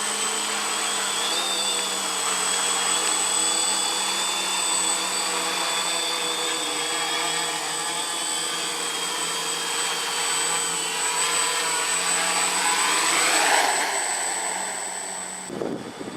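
XAIRCRAFT X650 quadcopter's motors and propellers in flight, giving a steady, even whine. Near the end it sweeps past loudly with a falling pitch, then the sound drops away suddenly.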